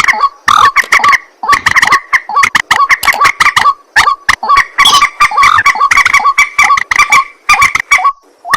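White-breasted waterhen (ruak-ruak) calling nonstop: loud, harsh croaking notes repeated in rapid stuttering runs, with only short breaks between runs.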